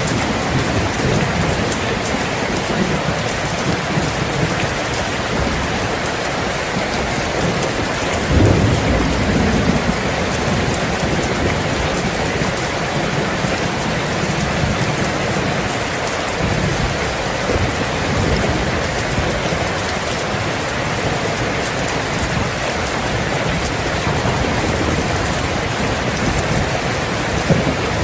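Steady heavy rain falling on surfaces, with low rolling thunder underneath that swells loudest about eight seconds in.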